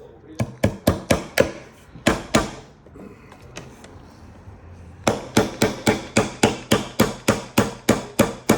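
Hammer driving a nail into wood. A handful of quick blows come first, then a pause of about two seconds, then a steady run of about three to four strikes a second.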